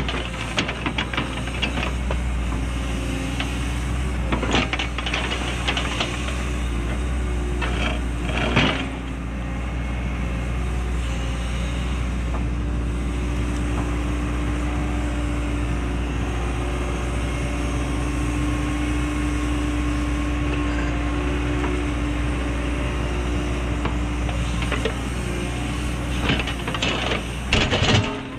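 Cat 314E excavator's diesel engine running steadily under working load with a steady whine, and now and then sharp knocks and scrapes from the attachment working the ground, the loudest about 8 seconds in and near the end.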